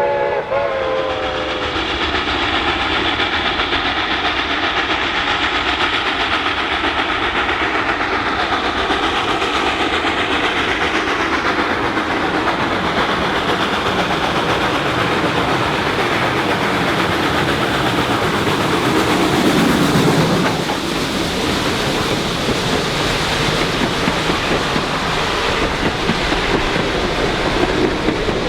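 Reading & Northern 425, a 4-6-2 steam locomotive, with its chime whistle chord cutting off about half a second in, then the locomotive and its train running steadily on the rails, with a slightly louder stretch about twenty seconds in.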